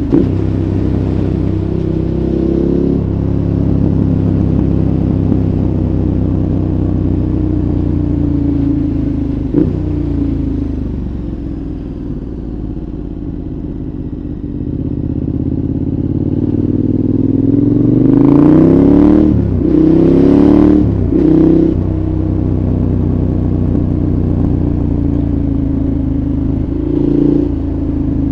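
2014 KTM 1190 Adventure's V-twin running through a Giannelli exhaust, heard onboard. It runs steadily, eases off to a quieter stretch, then about two-thirds in the pitch climbs hard under acceleration and breaks off twice at quick upshifts before settling back. There is a brief rise again near the end.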